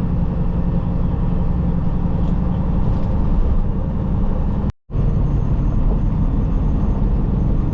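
Steady drone of a semi-truck's diesel engine and road noise inside the cab while driving, heavy in the low end. The sound cuts out completely for a moment about five seconds in, then the same drone carries on.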